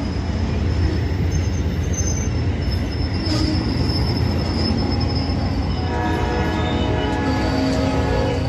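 Amtrak passenger train rolling slowly past, a steady rumble of wheels on rail with a thin high-pitched wheel squeal over it.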